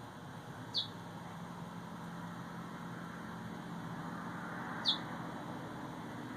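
A bird giving two short, high chirps, each dropping in pitch, about four seconds apart, over a steady low hum.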